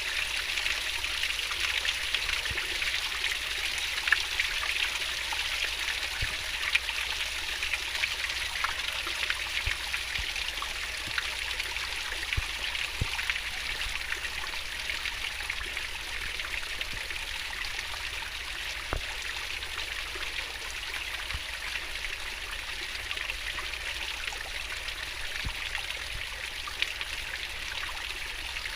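Fast-flowing stream water rushing and babbling in a steady wash, with scattered small splashes and plinks.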